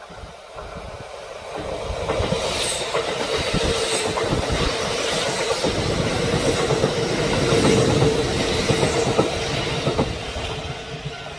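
Kintetsu limited express electric train passing close by, its wheels clacking over rail joints with a steady running hum. It builds up about two seconds in, is loudest toward the middle and later part, and fades near the end.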